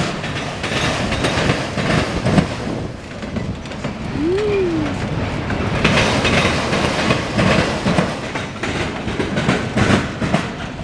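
CSX freight train of autorack cars rolling past, its wheels clacking over the rail joints over a steady rumble.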